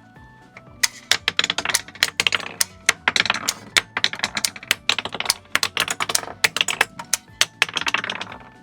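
Rapid, irregular clicking and rattling of a diecast model truck's small moving parts being worked by hand. It starts about a second in and comes in dense clusters.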